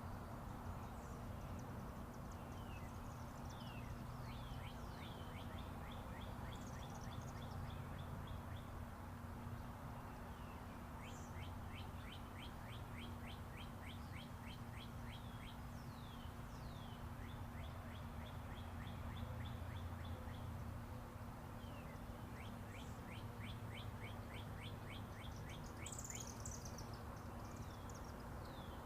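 Songbirds chirping and singing fast trills of short, evenly spaced notes, several times over, with scattered higher chirps. Underneath runs the steady low rumble of distant interstate highway traffic.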